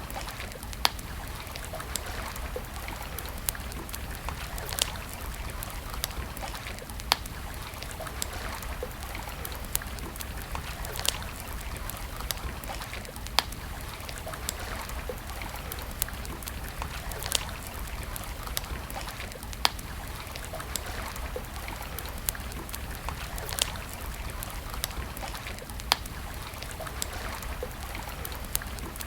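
Wood campfire crackling, with sharp pops every second or two over a steady background hiss.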